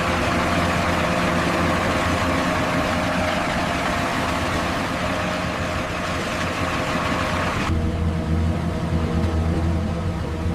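A heavy engine runs steadily at idle. A loud hiss lies over it for most of the time and cuts off suddenly about three seconds before the end.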